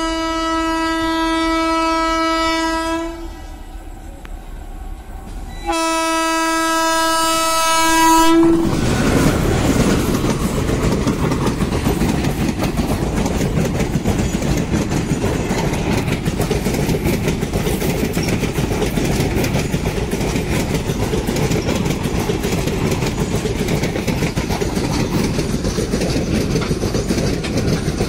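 Passenger train's locomotive horn sounding two long blasts, the first ending about three seconds in and the second after a short gap. From about eight seconds in, the train passes close by with a steady rumble and the rapid clickety-clack of coach wheels over the rails.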